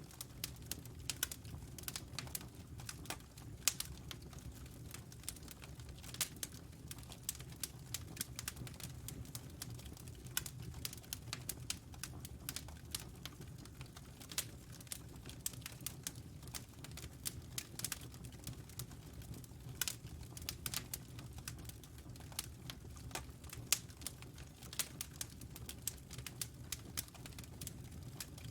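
Wood fire in a fireplace crackling: many irregular sharp pops and snaps over a low, steady rumble.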